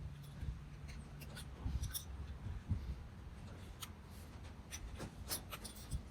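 Close-up handling noise of hands working on small parts: irregular light clicks and rubbing, with a faint low hum in the first second or so.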